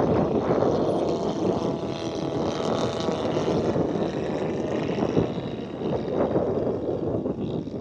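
Radio-controlled model airplane's motor buzzing in flight, a faint whine that drifts slightly in pitch, under a loud rush of wind noise on the microphone.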